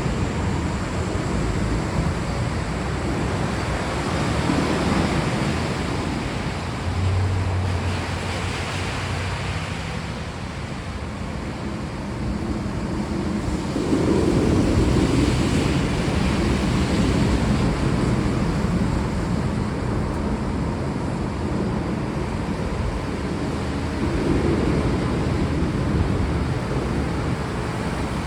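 Steady rain falling, a dense even hiss, with low rumbling swells about halfway through and again near the end.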